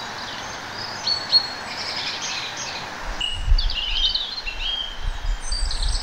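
Birds chirping and singing in short notes over a steady hiss, with low thumps joining from about halfway through.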